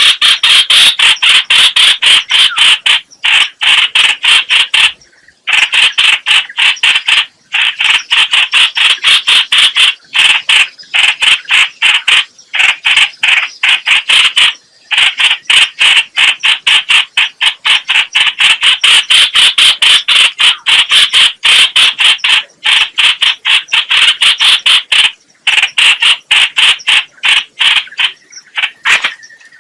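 Lure-call recording of the bird known in Vietnam as trao trảo (chao chảo, hoành hoạch): a loud, rapid chatter of short notes, several a second, broken now and then by brief pauses.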